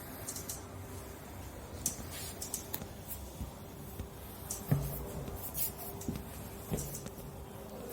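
Scattered small clicks, scrapes and knocks of hand work on a conveyor belt over a steady low hum, with one sharper knock a little past halfway.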